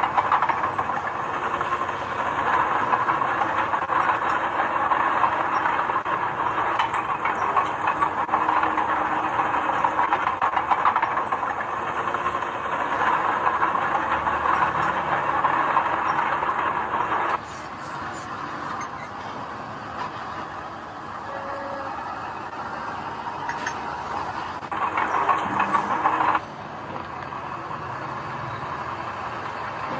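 Heavy construction machinery running, a steady loud mechanical din with rattling. It cuts abruptly to a quieter engine sound about halfway through, returns briefly near the end, then cuts back.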